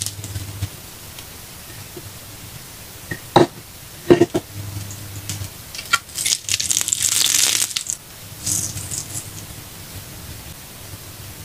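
A slice of red meat sizzling in oil on a cast-iron griddle over a wood fire. The sizzle flares louder for about a second past the middle as tongs press the meat down. Two sharp clicks come a little before the middle.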